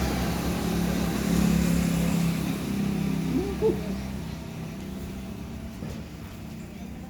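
A motor vehicle's engine running, loudest in the first half and fading away after about four seconds. A brief rising-and-falling cry sounds about three and a half seconds in.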